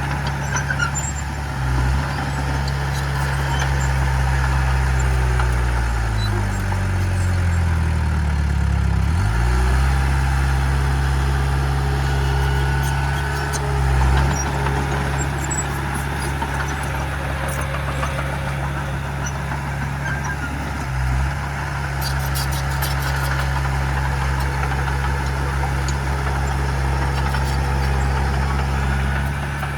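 Heavy diesel engine of earthmoving machinery running continuously. Its note falls for a few seconds and picks up again about nine seconds in, with a few brief dips in revs.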